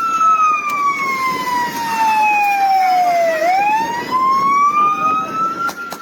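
Police car siren on a slow wail: the pitch falls steadily for about three and a half seconds, then rises again to the top near the end.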